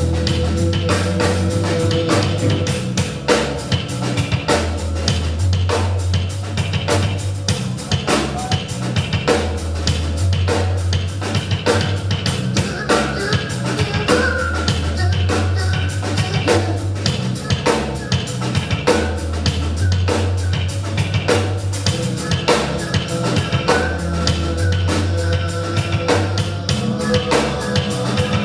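Live rock band playing loud and fast, with a full drum kit hitting a steady rapid beat over sustained bass and guitar, no vocals yet.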